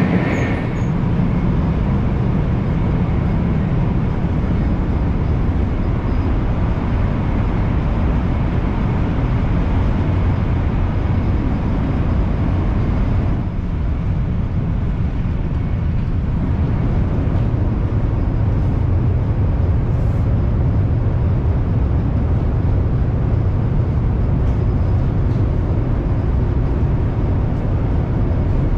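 Steady low rumble of a 500 Series Shinkansen running at speed, heard inside the passenger car. It eases slightly about halfway through.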